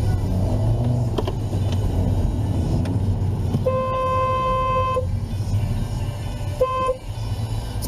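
Car horn honking: one long blast of about a second and a half, then a short beep a second and a half later, over the steady rumble of a moving vehicle.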